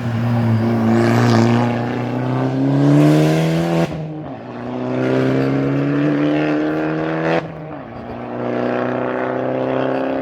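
Rally car engine accelerating hard through the gears. The note climbs, cuts sharply at an upshift about four seconds in, climbs again, and cuts at a second shift with a sharp crack about seven seconds in, then holds nearly steady.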